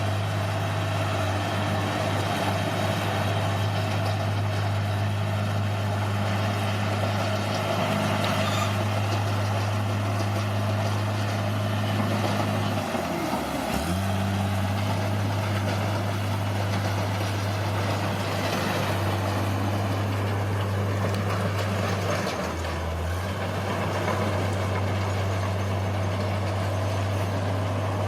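Diesel engine of heavy earthmoving machinery running steadily under work, with a dense mechanical clatter over the engine note. The engine speed dips briefly about halfway through, and again for about a second later on, then picks back up.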